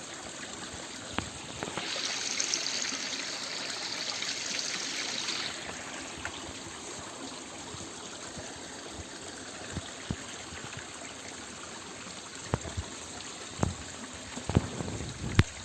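Mountain stream running and trickling over rocks, a steady rush that grows louder and hissier for a few seconds about two seconds in. Several sharp knocks near the end.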